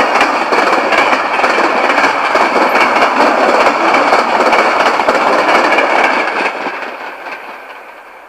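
Empty coal hopper cars of a freight train rolling past, wheels clattering over the rail joints in a steady clickety-clack, fading away from about two-thirds of the way in.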